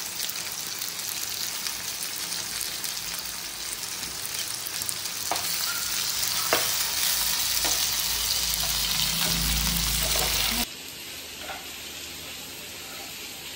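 Chopped onions, tomatoes, green chillies and garlic sizzling in hot oil in a non-stick frying pan while being stirred, with a slotted metal spatula clicking against the pan a few times. The sizzle drops suddenly to a quieter level near the end.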